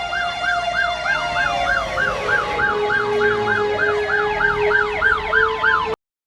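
Sirens wailing, one with a quick rise-and-fall repeating about three times a second while other siren tones slide up and down beneath it. The sound cuts off abruptly near the end.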